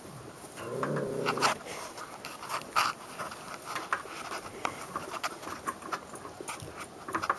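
Five-and-a-half-week-old Great Pyrenees puppies making a short low vocal sound about a second in, followed by scattered small clicks and scuffs as they move about.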